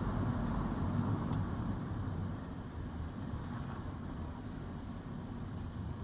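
A car driving along a road: steady engine and tyre rumble, easing off a little about two seconds in.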